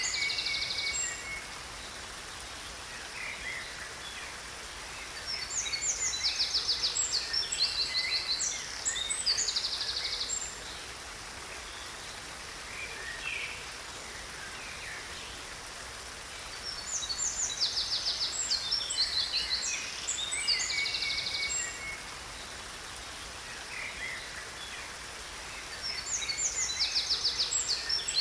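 Songbirds singing in three bursts of rapid, high trills and chirps, each a few seconds long and about eleven seconds apart, over a steady rush of falling water.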